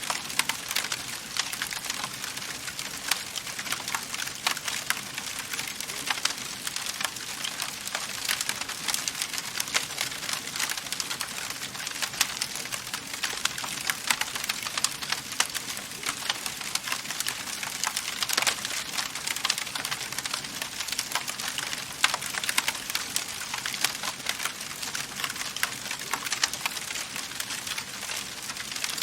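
Wood fire crackling steadily in a fireplace: a constant hiss of burning with many quick pops and snaps, a few louder ones standing out.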